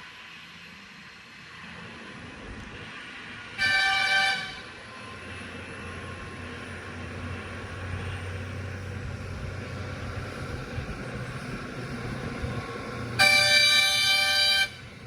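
A heavy truck's engine rumbles, growing louder as it approaches, while a horn sounds two blasts: a short one about four seconds in and a longer one near the end.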